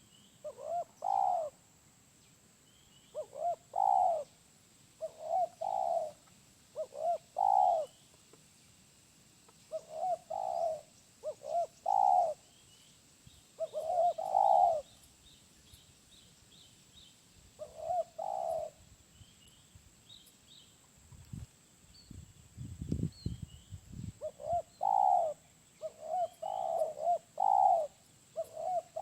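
Spotted dove (tekukur) cooing over and over in short phrases of two or three notes. Faint high chirps from small birds sound in the background. A brief low rumbling noise fills a pause in the cooing about three-quarters of the way through.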